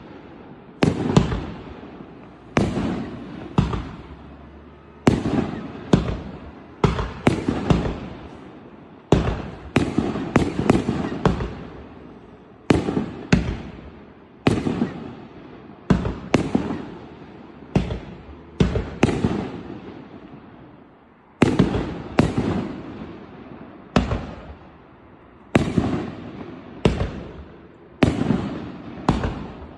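A 2.5-inch-bore, 50-shot firework cake firing, its shells bursting in a long run of loud, sharp bangs, each fading off with an echo. The bangs come irregularly, about one or two a second, often in quick pairs or triples.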